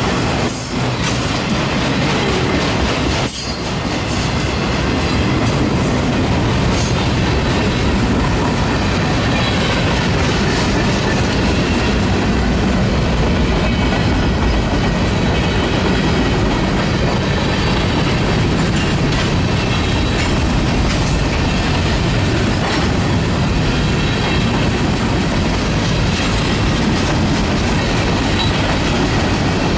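Freight train's autorack and covered hopper cars rolling past on steel wheels, a loud, steady rumble and clatter with a few sharp knocks in the first few seconds.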